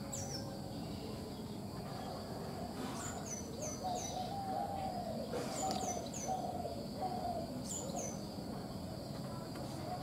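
Woodland birdsong: a small bird gives short high chirps that drop in pitch, in runs of two or three, over a steady high insect drone, with softer lower calls in the background.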